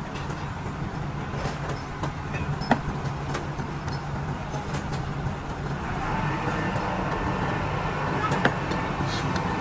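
A steady low machine hum, with a couple of sharp metallic clicks and a busier, louder noise joining about six seconds in.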